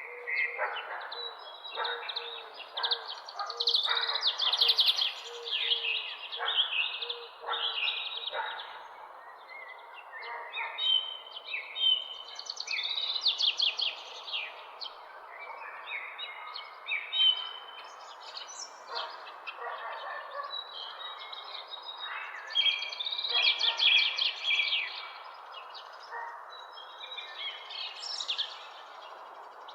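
Several songbirds chirping and singing in the early morning, with many short overlapping calls and trills throughout, over a steady background hiss. A low note repeats rapidly for the first several seconds.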